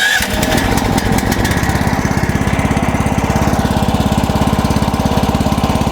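Gasoline engine of a MechMaxx portable band sawmill running steadily with an even, rapid firing beat. It comes in abruptly right at the start.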